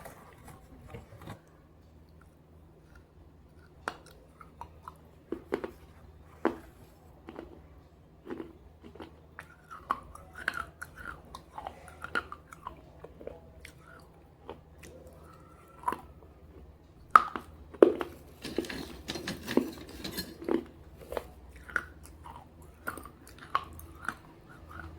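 A person biting and crunching pieces of slate in red gravy: sharp separate cracks and chewing, the crunching densest and loudest about 17 to 21 seconds in.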